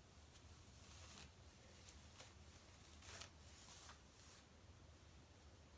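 Faint, soft swishes of a detangler brush being drawn through wet, conditioned hair, several strokes spread over the few seconds, against a quiet room hum.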